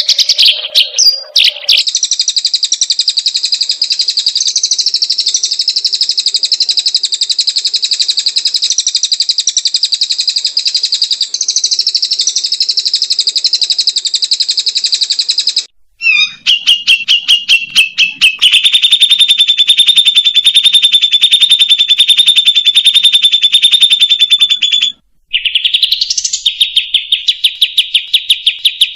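Loud songbird song made of fast, buzzy high trills. One long trill runs until about halfway, then there is a brief break and a few rapid clicking notes. A lower steady pulsing trill follows, then a quick rising note, and the pulsing trill resumes. The sharp cuts suggest spliced bird-song training (masteran) audio.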